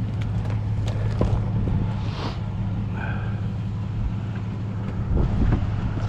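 Vehicle engine idling steadily, with scattered light clicks and knocks and a short high squeak about three seconds in.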